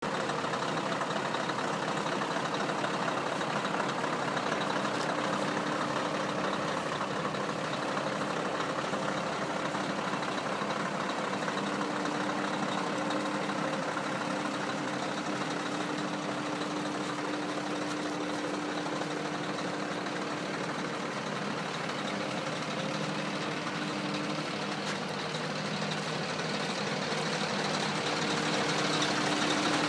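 Scania truck's diesel engine running steadily at an even speed, a little louder near the end.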